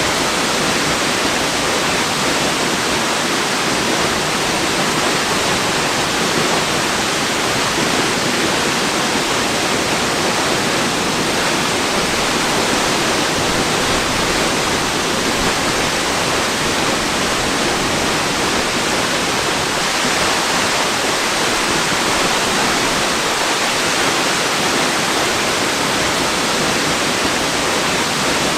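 Waterfall: falling water making a steady, even rush of noise that does not change in level.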